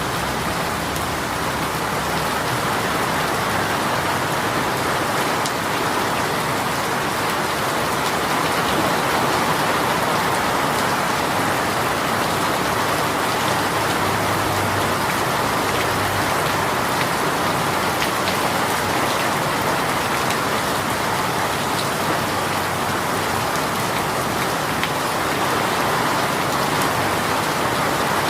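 Steady, continuous downpour of a rain shower, an even hiss of rain falling on surfaces.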